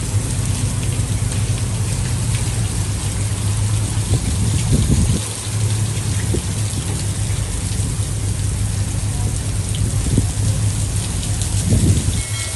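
Heavy rain falling steadily, with a constant low rumble underneath and a couple of brief low thumps, about five seconds in and near the end.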